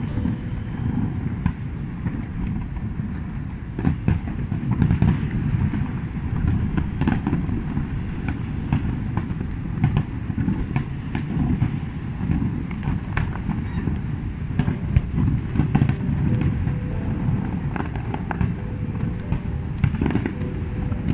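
Fireworks display: a continuous barrage of deep booms with many sharp cracks and bangs layered over it.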